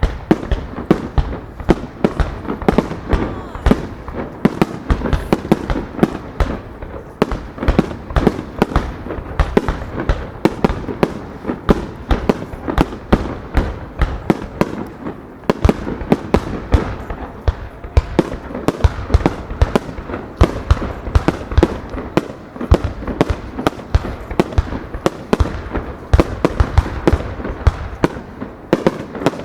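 Fireworks display in rapid-fire starmine sequence: dense, continuous bangs of shells bursting, several a second, over a steady crackle and rumble.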